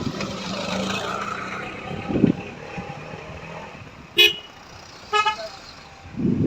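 Vehicle horn giving two short toots about a second apart, over the steady running noise of a road vehicle.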